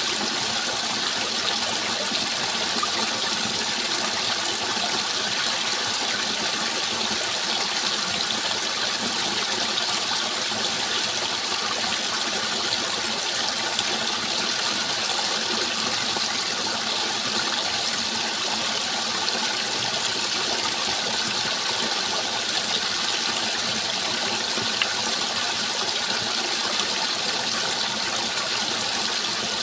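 Steady rushing water, an even unbroken hiss with no changes.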